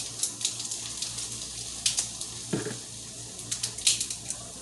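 Kitchen handling sounds: scattered light clinks and a duller knock about halfway through, over a steady hiss that sounds like a running tap.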